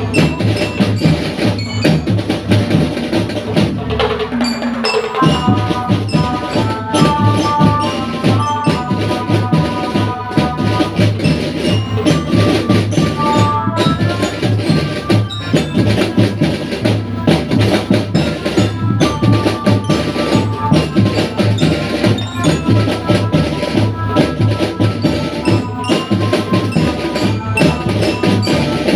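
School drum band playing: a dense, steady beat of drums with a melody line that comes in about five seconds in, just after a short falling tone.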